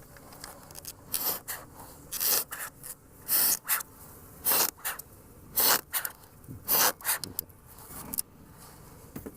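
Beekeeper's bellows smoker being pumped: about nine short puffs of air, roughly one a second, to calm irritable bees.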